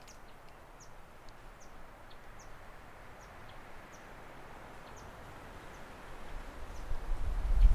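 A bird repeating a short, high, falling chirp about once a second over a soft outdoor hiss. Near the end a low rumble of wind on the microphone builds up.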